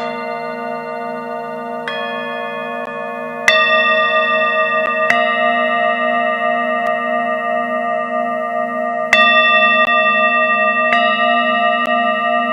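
Singing bowls struck one after another, about six strikes, each adding a new ringing tone over the long, overlapping tones still sounding. The lower tones waver slowly, and the strikes about three and nine seconds in are the loudest.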